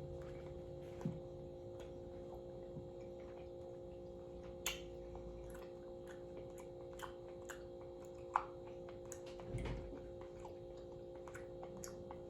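A person quietly eating crispy fried chicken: scattered small clicks and crunches of chewing and mouth sounds, the plainest about 1, 5 and 8 seconds in and a soft thump near 9.5 seconds, over a steady low hum.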